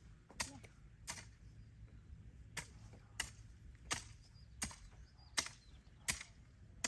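A series of sharp strikes at a steady pace, about one every three-quarters of a second with one longer pause near the start, over a faint low hum.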